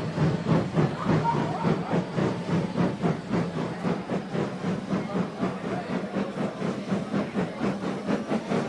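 Steam locomotive chuffing steadily, about three chuffs a second, over a steady low hum.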